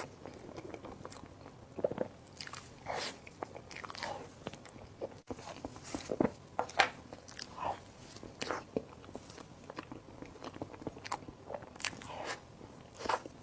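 A person biting and chewing food close to the microphone: irregular wet mouth clicks, smacks and soft crunches, about one or two a second.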